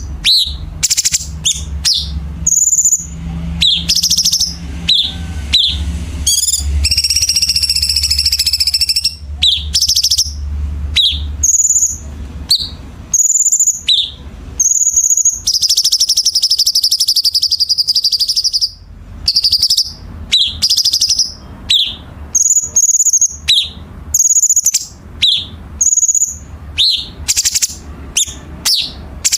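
Cucak cungkok singing in a fast, dense string of sharp high chirps and whistled notes. Near the middle comes a harsh, buzzy rattle held for about three seconds. A low steady hum runs under the first twelve seconds.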